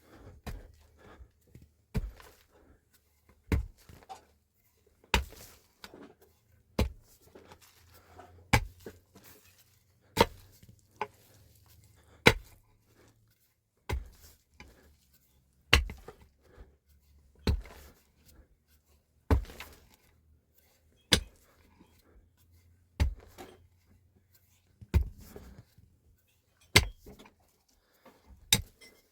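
Repeated heavy blows of a hand tool, one about every second and three-quarters at a steady working pace, each a single sharp thud.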